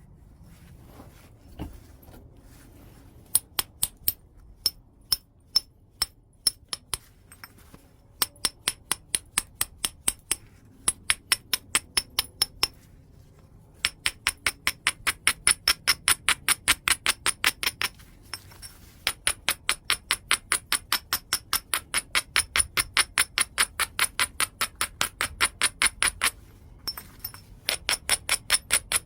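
Knapping white chert: runs of light, quick taps with a percussor on the stone, about three to four a second, each a sharp ringing click, broken by short pauses.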